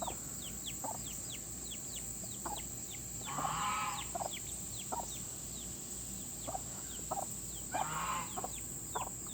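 Newly hatched chick peeping steadily, short falling chirps about three a second, while the mother hen clucks low beside it, with two longer, harsher hen calls about three and a half and eight seconds in.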